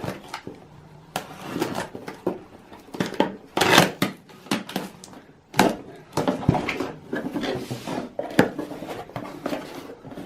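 A cardboard box being opened and the longboard truck parts inside handled: irregular rustling and scraping, with a few sharp knocks and clatters.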